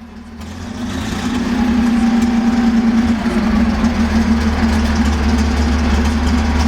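Tiger I tank's Maybach V12 petrol engine running at idle just after being started with its inertia starter, with a deep, steady rumble. It grows louder over the first couple of seconds, then holds even.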